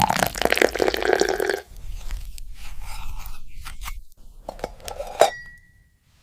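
Crunching, dense for the first second and a half, then scattered clicks and scrapes.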